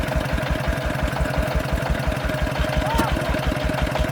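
Single-cylinder diesel engine of a công nông farm vehicle running steadily at idle, with an even low chug of about eight pulses a second.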